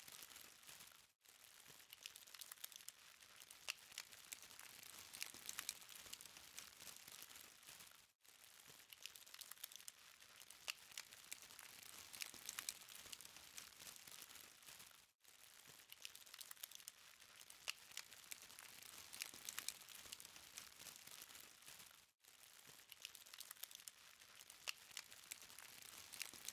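Charcoal fire crackling faintly, with a steady hiss and many small sharp pops and ticks. The sound drops out for a moment about every seven seconds.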